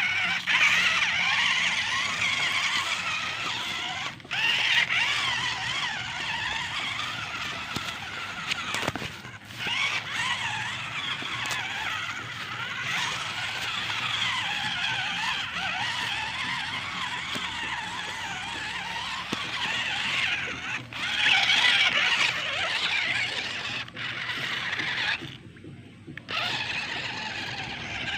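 Modified RC monster truck driving, its motor whining with a pitch that wavers up and down with the throttle, dropping out briefly a few times.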